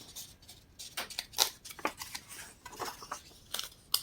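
Paper catalog pages being handled and turned: an irregular string of soft rustles and small clicks.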